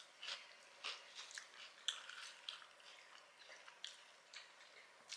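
Faint chewing of food with the mouth closed: soft, irregular little clicks and crunches.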